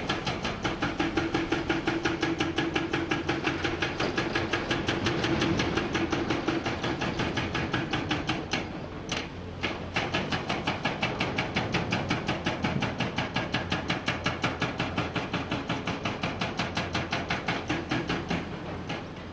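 Hydraulic breaker hammer on a Komatsu PC490 excavator pounding rock in a fast, steady run of blows, several a second. It stops briefly about halfway, then starts again. A steady engine hum runs underneath in the first few seconds.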